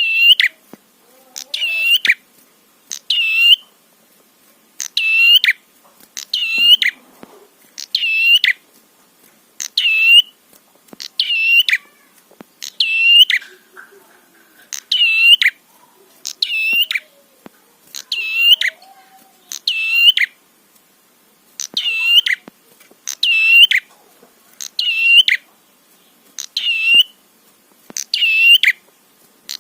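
Prenjak songbird calling: a short, sharp hooked note repeated about every one and a half seconds, each call nearly identical, as in a looped lure recording of a prenjak.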